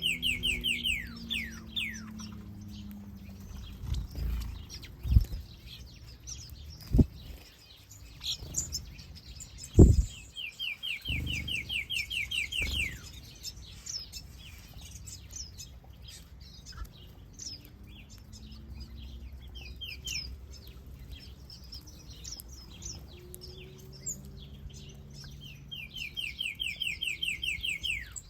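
Finches in an aviary, including a goldfinch, chirping and singing, with three bursts of a fast trill of repeated down-slurred notes, near the start, about eleven seconds in and near the end. A few sharp knocks between four and ten seconds in are the loudest sounds.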